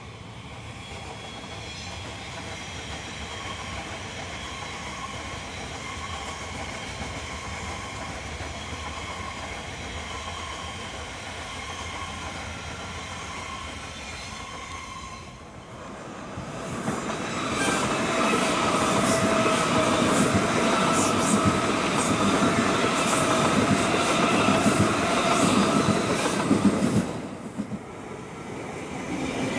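Elizabeth line Class 345 electric train running past at a distance: a steady rumble with a faint whine. About halfway through, a much louder, closer train passes with a steady whine and repeated wheel clicks, cutting off suddenly near the end.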